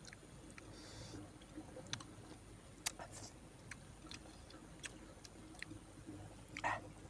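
Quiet, scattered mouth clicks and lip smacks of someone chewing food, roughly one a second, with a slightly louder smack near the end.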